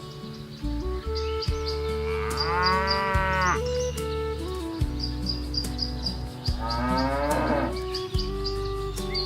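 Cattle mooing twice: a long call that rises and falls a couple of seconds in, and a second one about seven seconds in. Background music plays under them.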